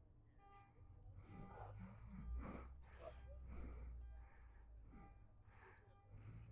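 Faint breathing and short puffs of air close to a helmet-mounted microphone, over a low steady rumble.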